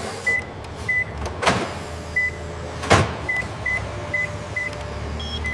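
Short high electronic beeps of handheld barcode scanners, about eight of them at irregular intervals, over a steady low machinery hum. Two loud sharp knocks fall about one and a half and three seconds in.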